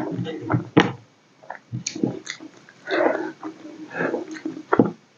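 Close-up eating sounds: a mouthful of rice and fried vegetables being chewed, with irregular short clicks and wet mouth noises.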